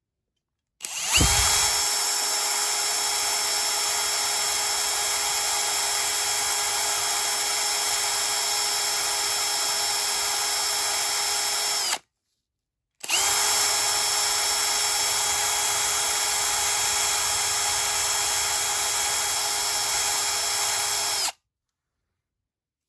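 Small electric power tool, drill-like, spinning up quickly and running at a steady speed with a steady whine. It cuts off suddenly, starts again about a second later, runs steadily once more and cuts off.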